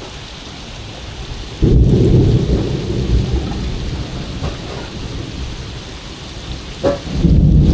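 Thunder over heavy rain: a sudden loud rumble about a second and a half in that fades over a few seconds, and a second one breaking near the end, with a steady hiss of rain underneath.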